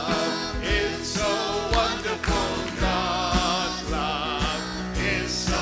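Worship song sung by voices over band accompaniment, with a steady beat.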